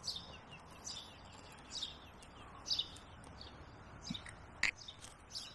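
Small birds chirping over and over in short high notes, about one to two a second, over a low outdoor background. A single sharp click sounds near the end.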